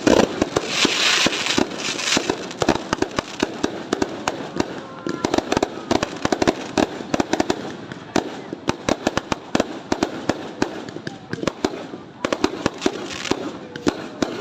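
Fireworks and firecrackers going off nonstop: a dense string of bangs and pops, with a loud burst of crackling about a second in.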